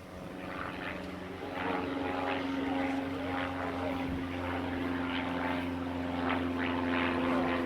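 An engine running at a steady speed, getting louder over the first couple of seconds and then holding an even pitch.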